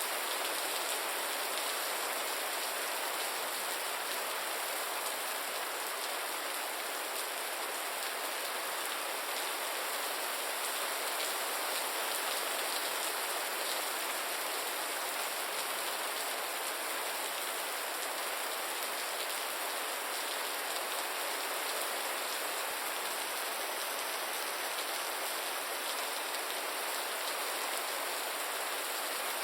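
Steady rain falling, an even patter of raindrops on a surface with no change in strength.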